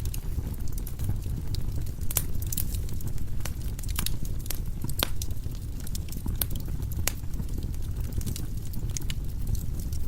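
Wood fire burning in a fireplace: a steady low rumble of flames with sharp, irregular pops and crackles of the burning logs.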